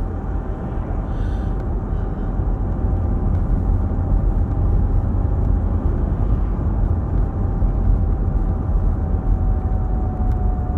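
Mercedes-Benz W210 on the move, heard from inside the cabin: a steady low drone with a thin, high whistle held on one pitch over it. This is the hum and whistle whose cause the owners have not found.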